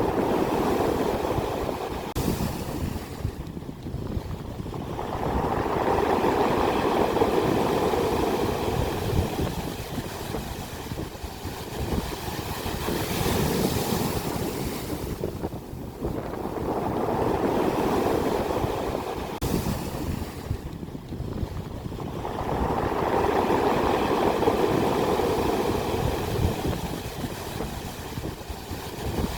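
Ocean waves crashing on the shore, the surf swelling and falling back in long surges a few seconds apart.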